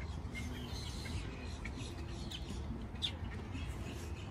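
Faint, scattered bird chirps over a steady low rumble of wind and outdoor background.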